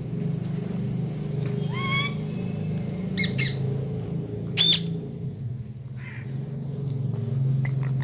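Indian ringneck parrot giving short squawks: a rising call about two seconds in, a quick pair of calls about a second later, and a louder, sharp call a little under five seconds in. A steady low hum runs underneath.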